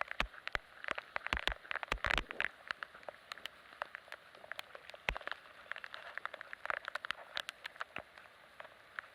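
Heavy typhoon rain: a steady hiss with many irregular drops ticking close by, and a few heavier knocks near the start, around two seconds in and around five seconds in.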